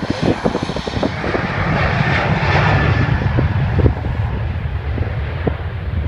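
Jet airliner engines as a plane passes: a loud rumbling roar that swells to a peak about two to three seconds in, then eases off slightly.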